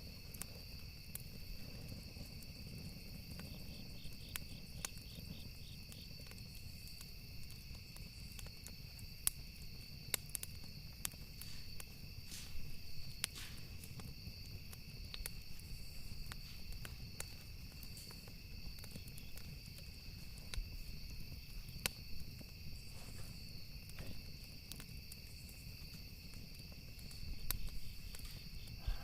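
Campfire ambience: burning wood crackling with scattered sharp pops over a low rumble, with crickets chirping steadily.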